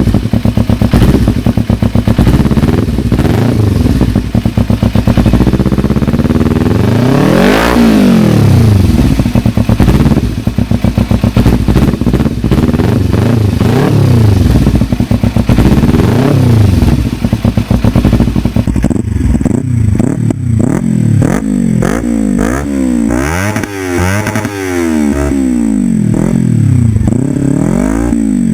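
Kawasaki Ninja 300's parallel-twin engine through an aftermarket exhaust, revved up and let fall back again and again, with one long high rev early on. About two-thirds of the way through it changes to another recording of a bike giving quicker, shorter blips of the throttle.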